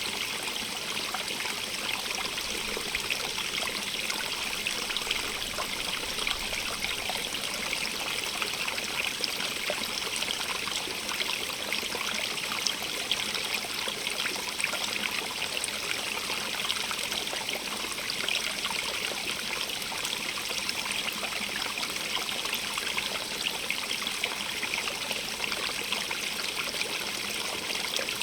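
Small stream running steadily over stones, a constant trickling, splashing rush heavier in the upper range, without pauses or changes.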